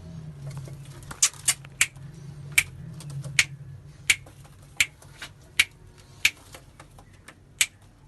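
Low pigeon cooing in the first few seconds, overlaid by a series of about a dozen sharp taps, roughly one or two a second.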